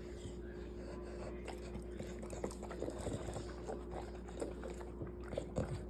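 American bully puppy licking and smacking its mouth: a run of quick, irregular wet clicks.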